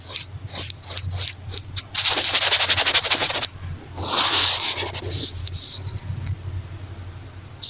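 Hair tie brushed and scratched against a microphone, close up: a run of short scrapes, then about a second and a half of dense, rapid scratching, then slower swishes that die away near the end.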